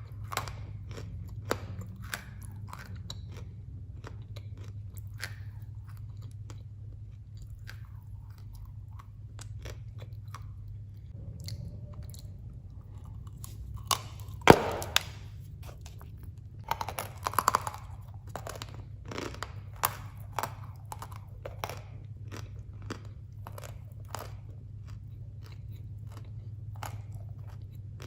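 Close-up biting and crunchy chewing of dry baked edible clay (khawa) blocks: many small crackling crunches, with one loud snapping bite about halfway through and a run of crunches a few seconds later, over a steady low hum.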